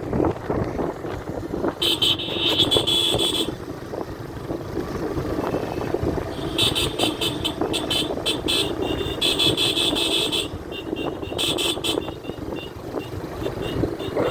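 Motorcycle riding along, its engine and the wind making a steady rumble. Over it come several bursts of a high, fast-pulsing buzz, about two seconds in and again from about seven to twelve seconds.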